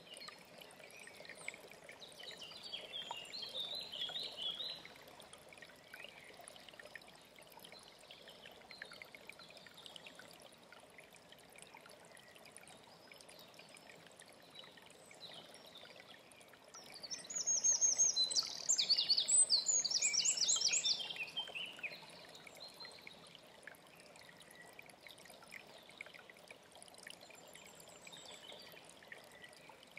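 A mountain stream running steadily, with songbirds singing over it: a quieter warbling phrase a couple of seconds in, then a loud, rapid song of quickly repeated notes starting about 17 s in and lasting about four seconds.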